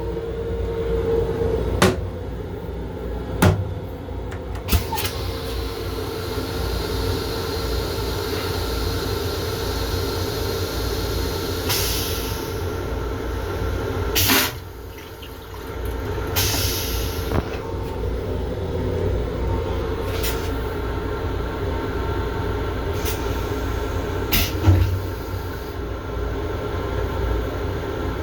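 Long Island Rail Road M7 electric commuter railcar running, heard from inside its onboard restroom: a steady low rumble broken by a handful of sharp clicks and knocks and a couple of short hisses.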